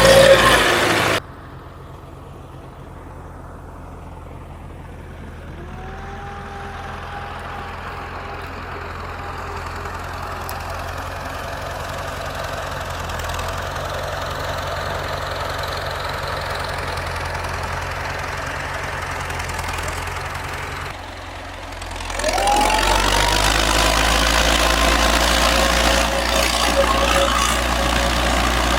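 Engine of a farm machine running steadily at low revs. It drops suddenly to a quieter level about a second in and grows gradually louder. Near the end it steps up in loudness with a rising whine.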